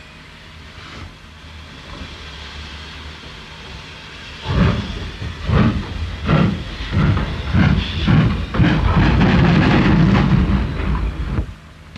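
Steam locomotive hissing, then setting off with exhaust beats starting about four seconds in. The beats come quicker as it pulls away and merge into a steady loud rush, which cuts off shortly before the end.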